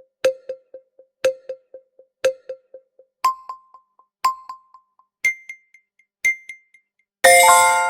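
Quiz countdown-timer sound effect: a short bell-like beep once a second, each trailing off in quick echoing repeats, the pitch jumping up an octave after four beeps and again after two more, then a bright ringing chime chord near the end as time runs out.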